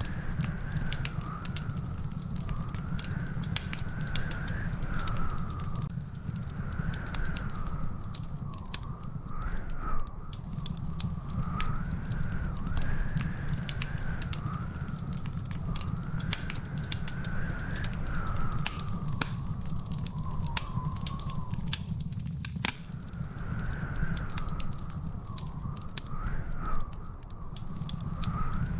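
Wood fire in a fireplace crackling, with frequent sharp pops over a steady low rumble. A thin, slowly wavering whistle runs above it with brief breaks.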